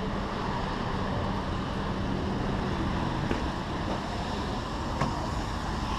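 Motor vehicle driving: steady engine and road noise, with a low hum that fades about halfway through.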